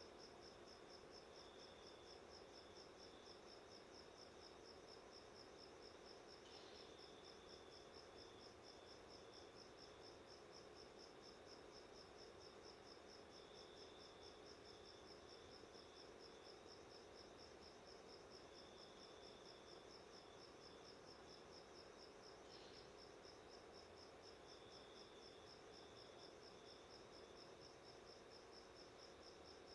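Faint, steady insect chirping: a high chirp pulsing rapidly and evenly without a break, with a lower chirp joining in short runs every few seconds.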